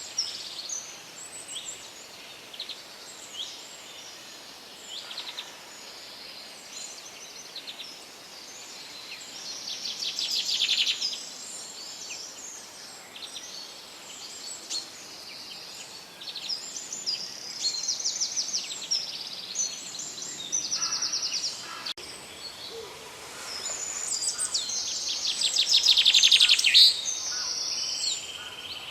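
Several songbirds singing and calling over one another, with rapid trills that swell loudest about ten seconds in and again near the end, over a faint steady background hiss.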